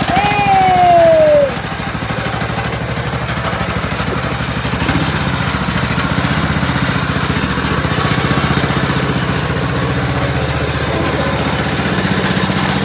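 Small tractor engine running just after starting: higher and louder for the first second and a half, with a falling whine as it drops, then settling to a steady, even run.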